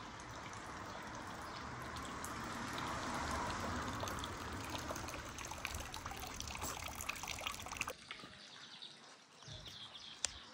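Rain falling with water trickling and many drops ticking on hard surfaces. The rushing water swells for a moment, then drops away abruptly near the end, leaving lighter scattered drips.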